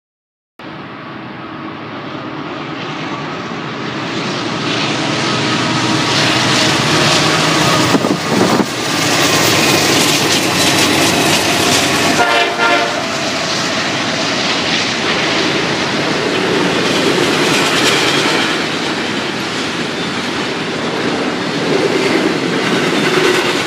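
Freight trains passing close by: the diesel locomotive of a Norfolk Southern freight, the GE ES44AC Conrail heritage unit, running with its horn sounding, and the wheels of the cars clattering over the rail joints. The sound starts abruptly, and about halfway through a second passing train takes over.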